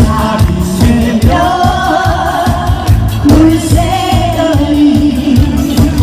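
Live trot medley: a singer holding long notes with vibrato over a band with a steady, driving drum beat.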